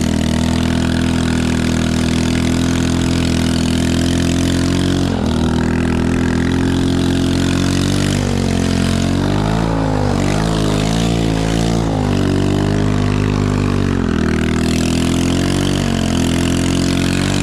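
Chinese 110cc ATV's small single-cylinder engine running steadily, its pitch wavering up and down with the throttle for a few seconds around the middle.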